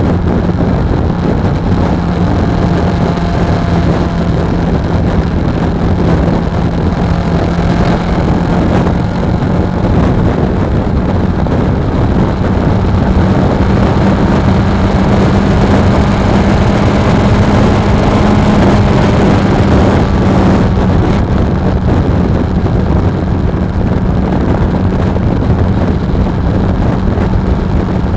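Suzuki V-Strom 250's parallel-twin engine running at a steady road speed, under heavy wind rush on the action camera's microphone. The engine note lifts slightly partway through and then settles back.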